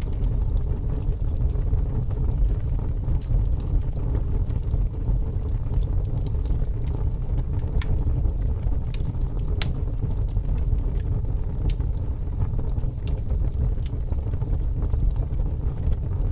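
Fire burning, with a steady low rumble of the flames and scattered sharp crackles and pops.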